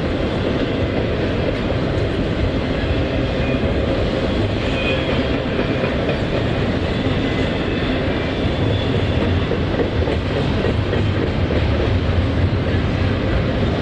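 CSX intermodal freight train rolling steadily past, its cars' wheels rumbling and clacking over the rail joints.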